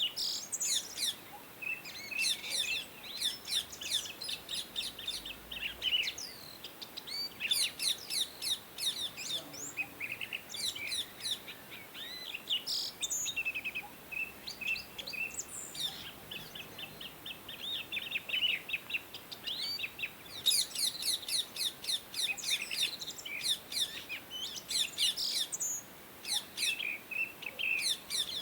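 Indian ringneck parakeets chirping in repeated bouts of rapid, high chirps, with brief pauses between the bouts.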